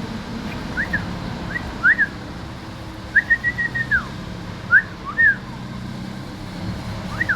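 A person whistling at a bird: a few short up-and-down chirps, a longer held note about three seconds in that drops off at its end, two more chirps, and another held note starting near the end.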